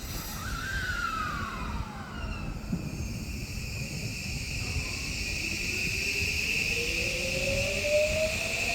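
Odakyu 5000 series electric train pulling away: the inverter and traction motors whine, with a steady high tone and a set of tones that climb in pitch from about halfway through as the train accelerates. Strong wind rumbles on the microphone underneath.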